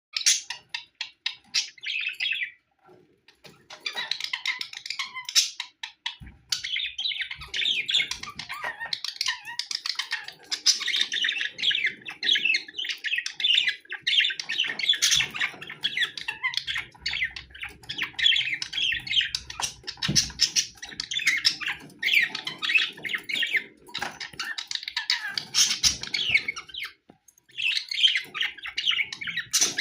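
Budgerigars chattering and warbling, a dense run of rapid chirps and squawks with a couple of brief pauses.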